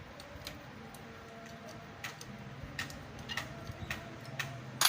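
Scattered light metallic clicks and taps of a spanner working a motorcycle engine's gear-lever bolt, irregular and a few to a second, with a louder knock near the end.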